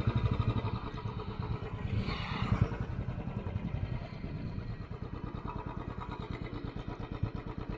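Motorcycle engine idling steadily, with an even run of firing pulses. A brief swell of noise comes about two seconds in.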